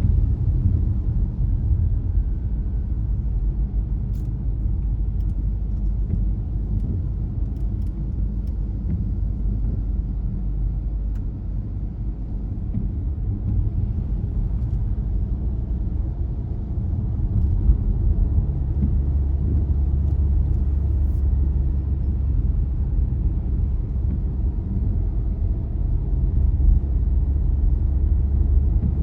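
A car driving, its steady low road and engine rumble growing somewhat louder a little past halfway, with a few faint ticks.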